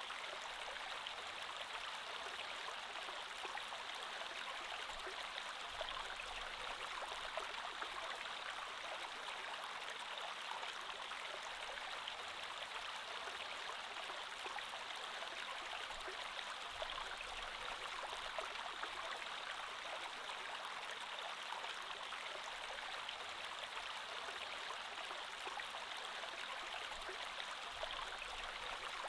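Creek water flowing steadily over rocks, a constant rushing babble with fine splashing detail.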